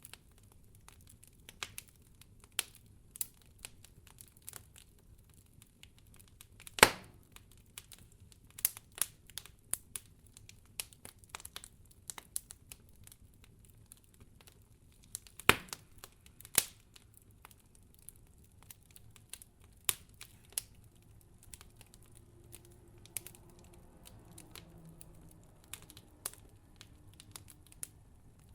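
Wood fire crackling, with irregular sharp pops and snaps over a faint low rumble. Two pops, about 7 and 15 seconds in, stand out as the loudest.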